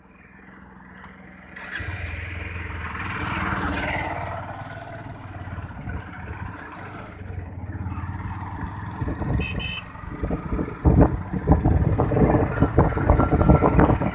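Motorcycle engine running, coming in about two seconds in, with a short high-pitched beep near the middle. From about ten seconds in, loud irregular wind buffeting on the microphone as the bike moves.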